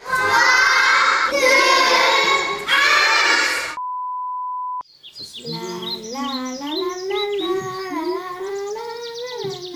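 A group of children shouting three times in a row, a countdown, then a steady one-second test-card beep. After it, a single child's voice sings a slow, wavering tune.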